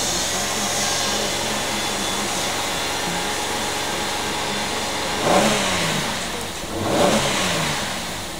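2008 Holden Commodore's 3.6-litre V6 engine running steadily, heard from inside the cabin, then blipped twice about five and seven seconds in, the pitch rising and dropping back each time.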